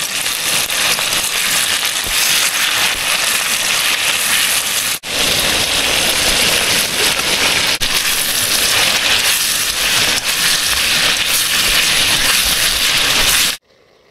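Food sizzling as it is stir-fried in a hot pan, a loud steady hiss that drops out briefly about five seconds in and cuts off suddenly near the end.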